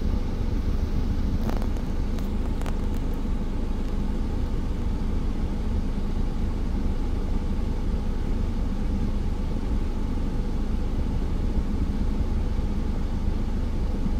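Car engine idling, heard from inside the stationary car's cabin: a steady low rumble, with two faint clicks about two seconds in.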